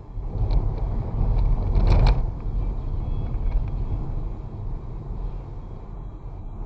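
Vehicle driving along a road with low engine and road rumble and wind over the microphone. The rumble swells sharply at the start, peaks about two seconds in with a couple of short clicks, then eases off.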